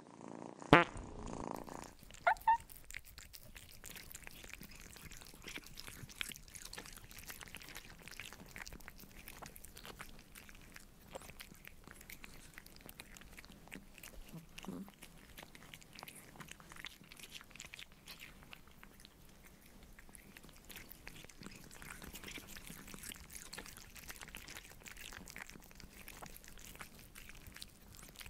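Kittens licking yogurt off a clear pane: a steady stream of small wet tongue clicks and smacks. A sharp knock comes just under a second in, and two short sharp sounds follow about two seconds in.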